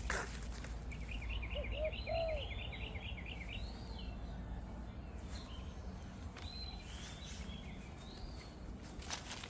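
Wild birds calling: a fast, chittering trill of chirps about a second in, lasting about two seconds, with a few lower whistled notes under it and scattered higher calls after. A steady low hum of background noise runs underneath, with a sharp click at the start and again near the end.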